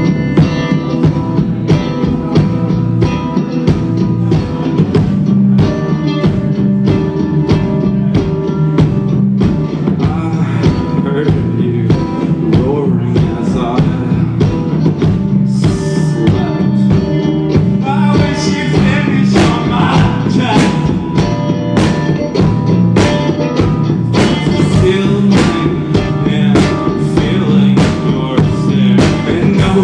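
Live rock band playing an instrumental passage, with a drum kit keeping a steady beat under guitar. The full band comes in at once right at the start.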